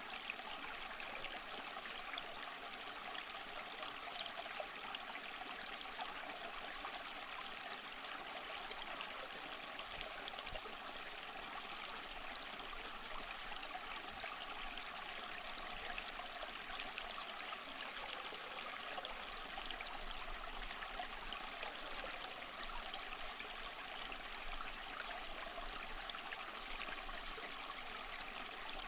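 Waterfall running steadily: an even, hissy rush of water with little deep rumble.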